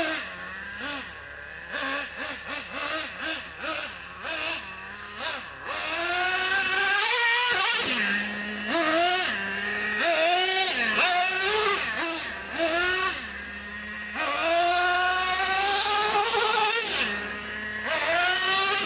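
Small nitro engines of radio-controlled trucks revving up and down over and over, with the pitch rising and falling and dropping back to a steady idle between runs. A string of short knocks sounds in the first few seconds.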